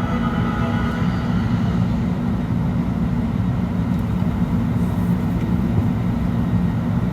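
Steady low drone inside the cabin of a parked Airbus A319 airliner, the hum of its air-conditioning and ground power before engine start, with the last notes of music fading out about a second in.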